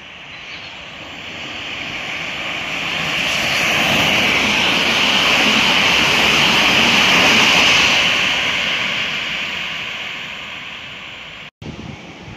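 Electric multiple-unit train passing close by along the line, a steady rushing roar of wheels on rail that swells to a peak mid-way and then fades as it goes away. The sound cuts off abruptly near the end.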